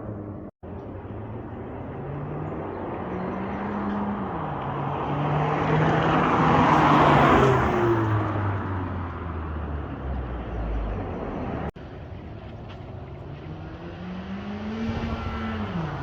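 Honda Civic Si's 1.5-litre turbocharged four-cylinder through a 3-inch downpipe-back aftermarket exhaust, accelerating through the gears with the pitch climbing and dropping at each shift. It grows loudest about seven seconds in as the car passes, and the sound cuts out briefly twice where clips are joined.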